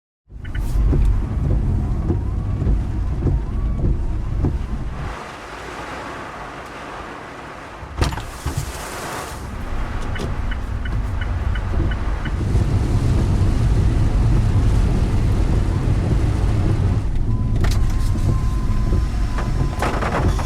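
Car on the move: a steady low rumble of engine and road noise, quieter for a few seconds in the middle, with a single sharp knock about eight seconds in.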